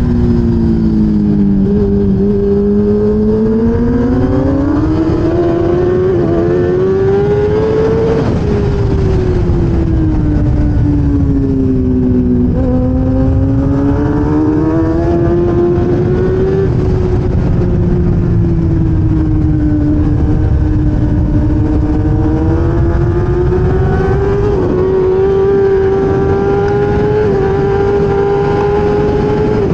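1000cc racing motorcycle engine heard onboard at race speed. Its note rises and falls over several seconds at a time, with a few small jumps in pitch, under a constant rush of noise.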